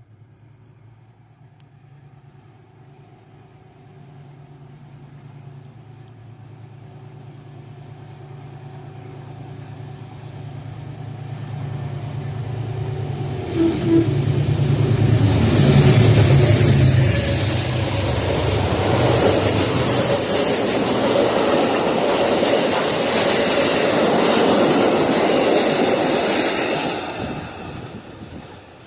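A diesel passenger train approaches and passes close by. Its engine note builds steadily over the first half. Loud wheel-on-rail noise with a high hiss then follows as the train goes by, and drops off sharply near the end.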